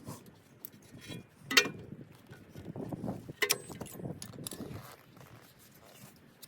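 Metal clinks and knocks of hand tools and brake parts being handled during rear brake pad work, with two sharp clanks about one and a half and three and a half seconds in.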